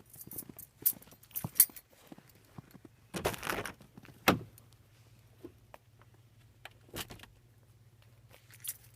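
Keys jangling and clicking, then a brief rushing noise and a single heavy thump about four seconds in, with a few lighter knocks after it. A low steady hum runs under it except for the first few seconds.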